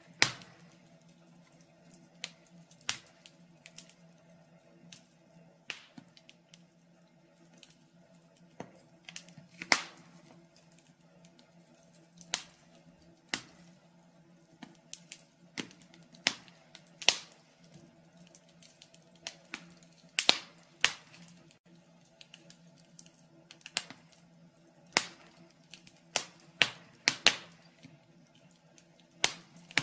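Wood fire in a fireplace crackling, with irregular sharp pops and snaps, a few much louder than the rest, over a faint steady low hum.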